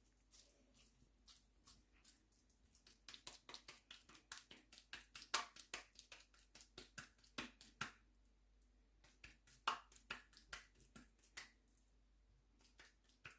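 Oiled hands pressing and patting minced chicken into kebab shape: faint, quick wet clicks and squelches in runs, thickest in the middle and again briefly later.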